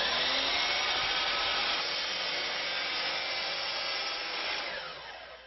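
Power saw running and cutting a 45-degree angle on the end of wooden swan neck molding, then winding down with a falling pitch near the end.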